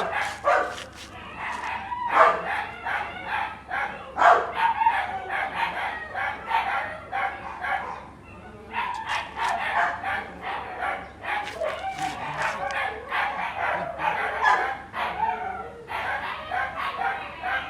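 Dog vocalising in a rapid run of short yelps and barks, a few a second, with a brief pause about eight seconds in.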